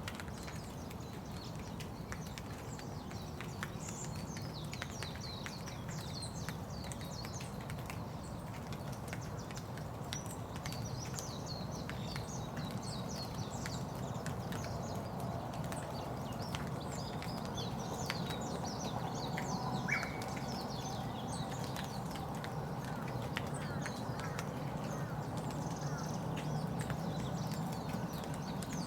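Steady rain with many individual drops ticking, while small birds chirp repeatedly in high, short calls.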